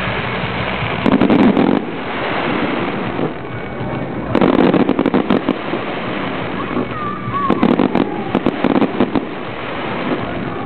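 Aerial fireworks going off in three crackling volleys, about one, four and seven and a half seconds in, over a steady rumbling hiss.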